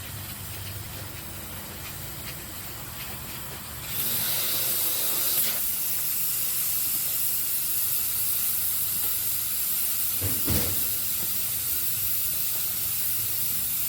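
Steam hissing from a homemade pipe steam box fed by a pressure canner; the hiss jumps suddenly louder about four seconds in. A brief knock comes about ten seconds in.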